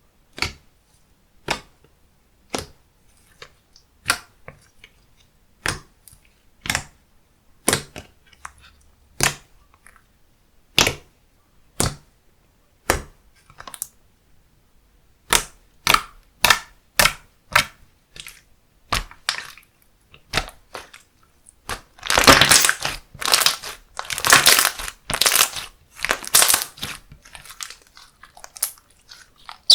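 Slime being pressed and poked by hand, giving sharp pops about once a second, then a denser run of crackling pops about two-thirds of the way through.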